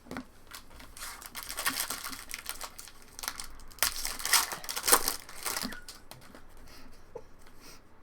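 Trading card pack wrapper being torn open and crinkled by hand, a dense crackling that peaks about four to five seconds in and then dies down to lighter handling.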